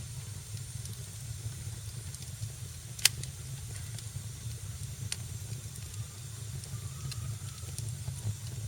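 Wood fire crackling in a fireplace over a low, steady rumble, with scattered small ticks and two sharp pops, a loud one about three seconds in and another about two seconds later.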